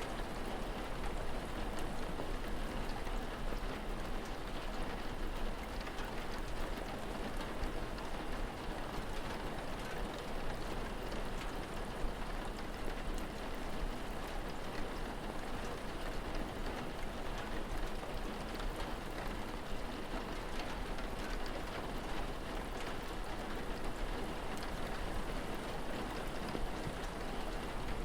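Steady rain falling, an even unbroken wash of noise with no single drops or events standing out.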